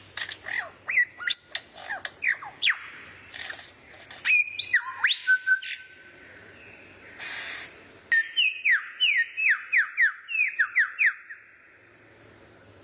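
A songbird singing: quick sweeping whistles and chirps, then a fast run of about ten falling whistles. The song stops about a second and a half before the end.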